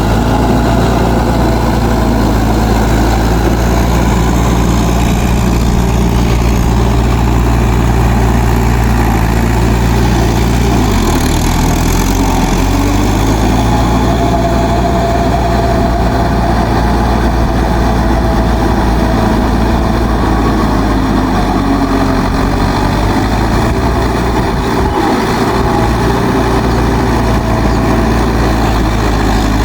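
Mahindra 4WD DI tractor's diesel engine running steadily, its low note shifting briefly about eleven seconds in.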